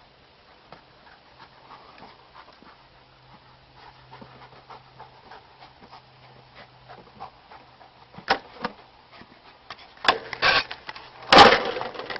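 A dog panting and moving about, with many small taps, then a few loud short sounds near the end, the loudest about three quarters of the way through.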